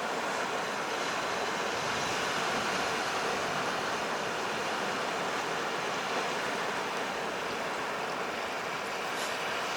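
Sea surf washing on the shore: a steady, even rush of water noise.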